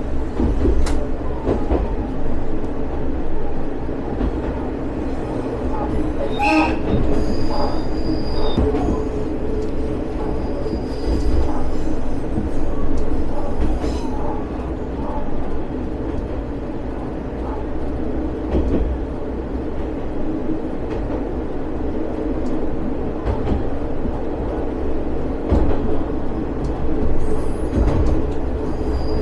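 Single-car diesel railcar running along the track, heard from inside: a steady low drone and rumble of engine and wheels on rail, with short high-pitched wheel squeals now and then and a clatter of clicks about six and a half seconds in.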